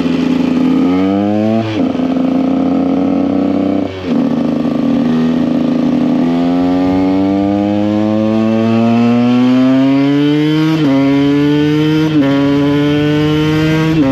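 2014 KTM EXC 125 Sixdays' two-stroke single-cylinder engine accelerating through the gears. Its pitch climbs in each gear and drops sharply at each upshift, about five times, with one long pull in the middle.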